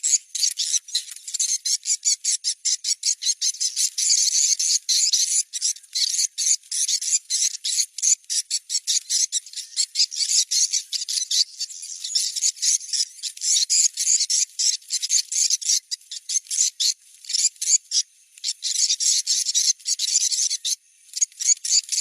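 Swiftlet lure recording for checking a building site: dense, rapid twittering chirps of swiftlets, with a steady thin high tone behind them. It breaks off for a moment near the end.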